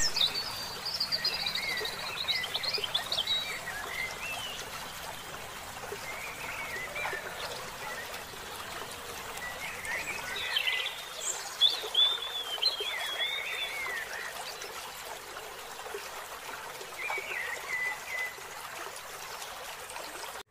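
Birds chirping and calling in scattered phrases with pauses between, busiest a little past halfway, over a steady outdoor hiss.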